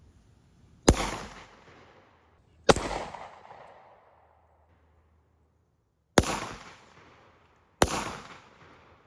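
Four handgun shots fired one at a time at irregular gaps of about one and a half to three and a half seconds. Each is a sharp crack followed by a trailing echo.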